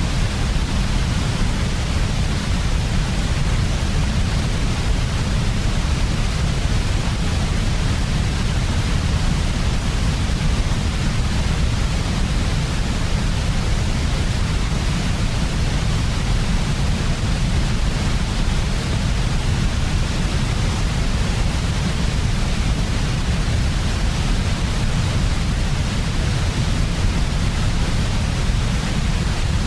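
Generated white noise for sleep, steady and unchanging, with most of its weight in a deep low rumble under a softer hiss.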